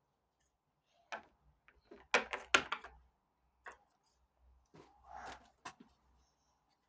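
Soft, scattered clicks and taps of small plastic toy figurines being handled and set down on a surface, with a quick run of several taps about two seconds in and a short rustle near the end.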